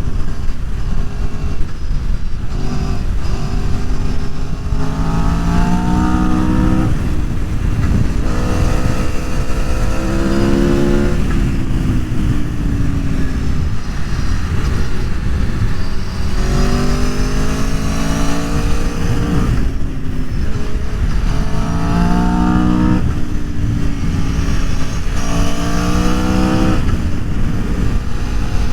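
Aprilia Tuono V4 1100's V4 engine pulling hard about five times, its pitch climbing through each rise, over a constant low rumble of wind and road noise.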